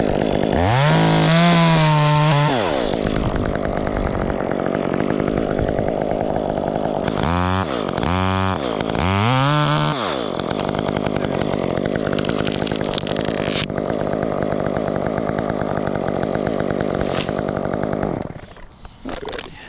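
Chainsaw running and cutting into a fir trunk, its pitch swinging up and down a few times as the throttle is worked. It drops away near the end.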